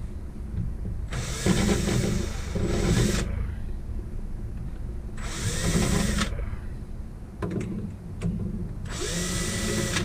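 Power drill pre-drilling pilot holes: three bursts of drilling, about two seconds, one second and one second long, the later ones ending with the motor's pitch sliding as it winds down, over a steady low hum.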